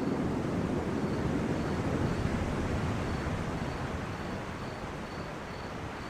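Steady low rumbling outdoor ambience, like wind or a distant rumble, easing slightly toward the end, with a faint high chirp repeating about twice a second.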